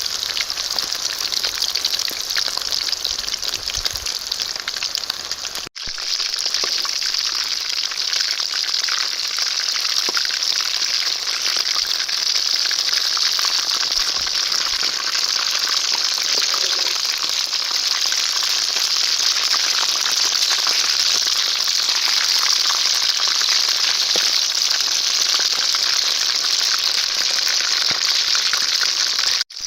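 Quail curry frying in hot oil in a pan: a steady sizzle, broken by two brief gaps, about six seconds in and near the end.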